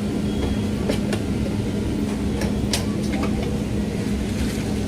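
Steady low rumble with a constant hum, broken by a few short sharp clicks about a second in and again near the middle.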